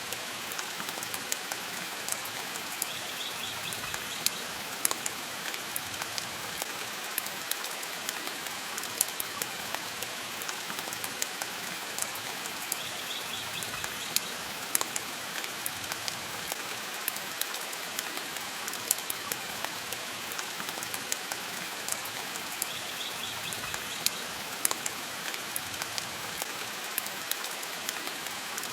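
Steady rain hiss mixed with the crackle of a wood fire in a fireplace, with frequent sharp pops and snaps scattered through.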